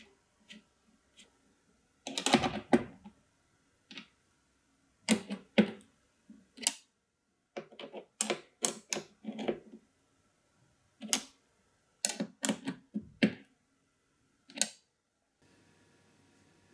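Irregular clicks and knocks of small hardware being handled and fitted, as the cooler's mounting bracket goes onto the motherboard. The sounds come singly and in quick clusters of two to five.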